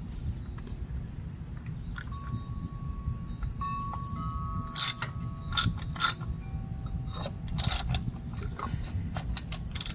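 Metal tools clinking and a ratchet clicking as a filter housing cap wrench and 3/8 ratchet are worked onto a tight oil filter housing. Several sharp clanks, the loudest about five and eight seconds in, some leaving a short metallic ring.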